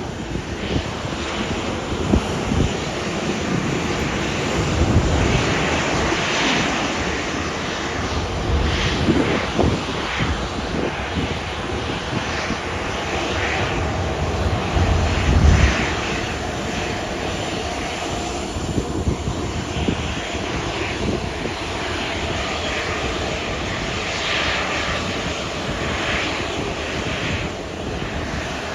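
Jet engines of a Boeing 737 airliner running steadily on landing approach.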